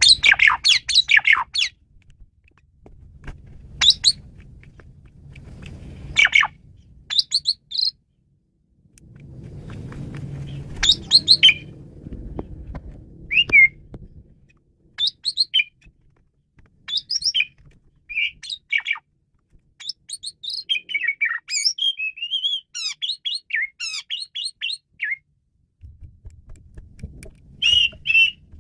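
Pied starling (jalak suren) singing in short loud phrases of whistles, chirps and harsh squawky notes, with a fast chattering run of notes a little past the middle. A low rumble comes and goes under the song.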